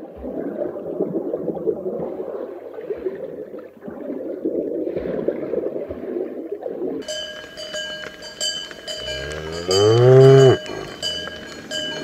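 Low, murky water noise of an aquarium tank, then, from about seven seconds in, cowbells clinking over a field. About nine seconds in, a cow gives one long, loud moo that rises and then falls in pitch.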